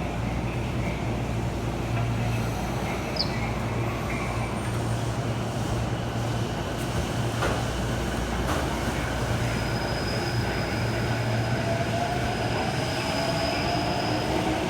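Tokyo Metro Tozai Line subway train running with a steady rumble and low hum. In the second half a faint electric motor whine rises in pitch.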